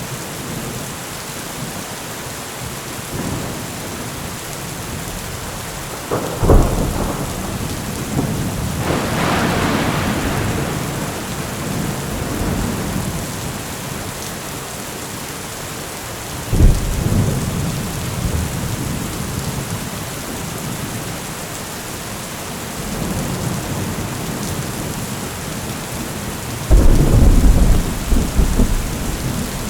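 Steady heavy rain with thunder: sharp claps about six and seventeen seconds in, a long rolling rumble soon after the first, and a loud clap that rumbles on near the end.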